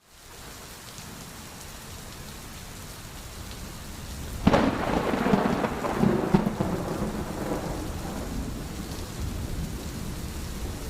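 Steady rain falling, with a clap of thunder about four and a half seconds in: a sharp crack, then rumbling that fades over the next few seconds.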